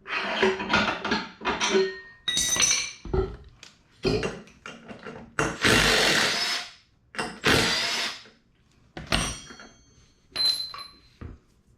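Hand tools and metal mini bike parts being handled on a workbench: a run of separate clanks, scrapes and rattles, with one longer scraping stretch midway and a short metallic ring near the end.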